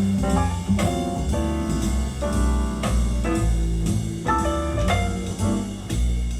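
Jazz recording with drum kit, piano and double bass played back over a high-end hi-fi loudspeaker system in a demo room.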